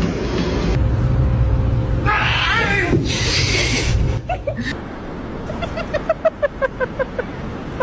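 A cat calling: a drawn-out, wavering meow about two seconds in, then, from past halfway, a fast run of short chirps, about six a second.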